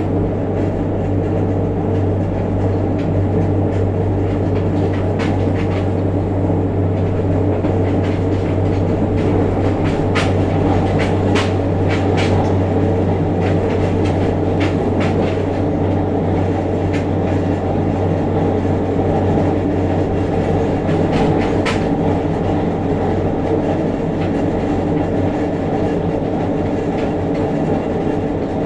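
JR Kyushu 303 series electric train running, heard from just above a motored bogie: a steady deep hum with a growl from around the traction motor, which the recordist notes comes with heavy vibration as the motor turns. Several sharp wheel clicks come in the middle.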